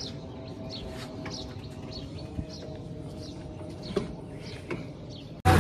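Birds chirping in short, high calls about twice a second, over a faint steady hum. Just before the end, a tractor engine running cuts in suddenly and loud.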